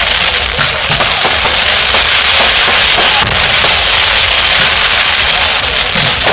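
Fireworks going off in a display: a dense, continuous crackling and popping with no single big bang standing out.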